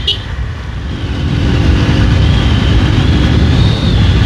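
Hero Xtreme 200R motorcycle running on the road, its engine mixed with a low rumble of road and wind noise that grows louder about a second in.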